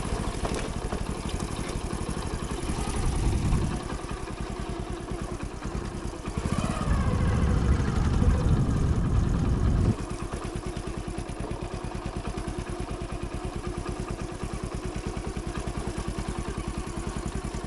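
Hero Splendor's single-cylinder four-stroke engine running under the rider, with the throttle opened twice, briefly and then for a few seconds. About ten seconds in it drops suddenly to a quieter, steady, even beat.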